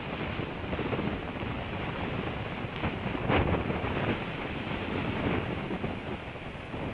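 Wind buffeting an outdoor nest-camera microphone: a steady rushing noise with uneven gusts.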